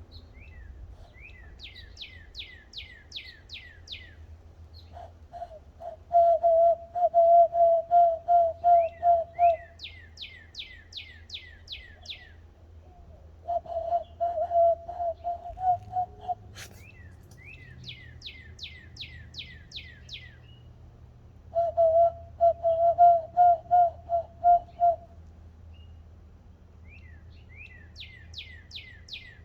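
Bird-call practice heard as call and answer. A high series of about eight quick down-slurred bird-song notes alternates with a louder, much lower human imitation call of rapid repeated notes, about five a second. The bird phrase comes four times and the imitation three.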